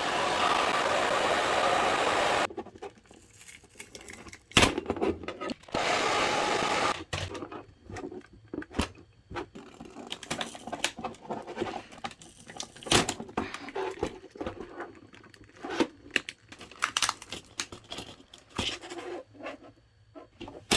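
Small plastic parts of a Bluetooth keyboard being handled and pried apart: many irregular sharp clicks and knocks. A steady hiss runs for the first two and a half seconds and again for about a second around the six-second mark, each cutting off suddenly.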